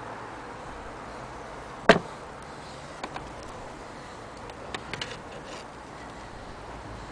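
A sharp knock about two seconds in, then a pair of light clicks and a small cluster of clicks and taps a couple of seconds later, over a steady hiss: handling noise of an antique Singer 12K sewing machine, with no running or stitching rhythm.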